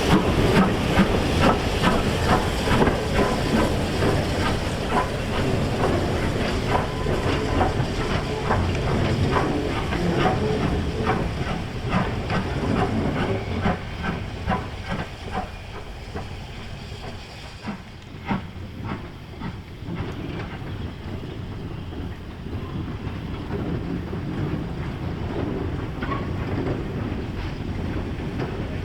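Heritage railway train running over jointed track, its wheels clicking over the rail joints, with hissing. It grows quieter over the first fifteen seconds or so as it moves away, leaving a steadier, quieter rumble.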